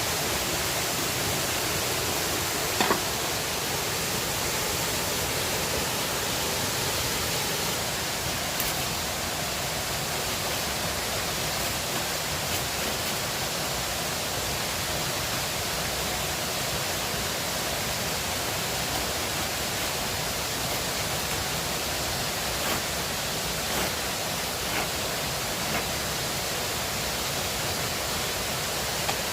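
River water rushing steadily, with a few brief clicks over it, the loudest about three seconds in.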